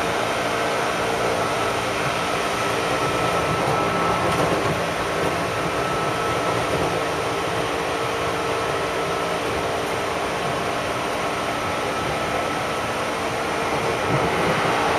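Steady running noise inside a commuter train carriage: a low, uneven rumble under a constant hum made of several held tones.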